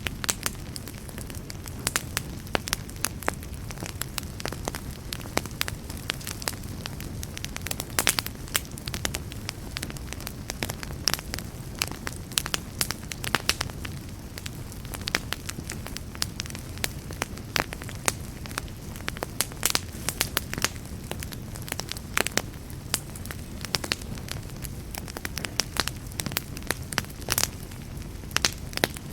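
Wood fire burning steadily: a low rumble of flames with many sharp, irregular crackles and pops.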